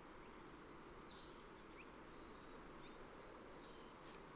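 Faint birdsong: thin, high whistled notes, some held and some sliding, over a soft steady outdoor hiss.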